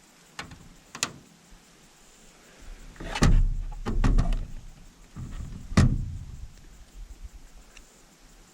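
A couple of sharp clicks, then a run of knocks and rattles from something being handled or moved, the loudest two about three and six seconds in.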